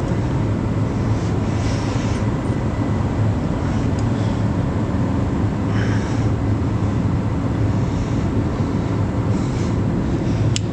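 A steady machine drone with a strong low hum, at the same level throughout, with a couple of faint clicks about four seconds in and near the end.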